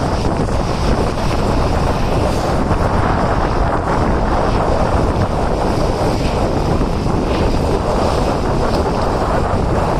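Steady wind rushing over the microphone from a moving train, with the train's running noise underneath.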